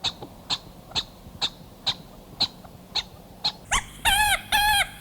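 Galago (bushbaby) calling: a run of short, sharp chips about twice a second, then from about four seconds in, louder pitched cries in the same quick rhythm.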